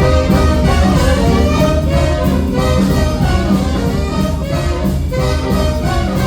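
Jazz band playing, sustained notes over a steady beat.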